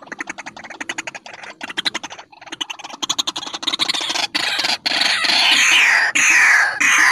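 White-breasted waterhen calling: a fast rattle of short notes, then from about halfway loud harsh calls that fall in pitch, repeating a little under once a second.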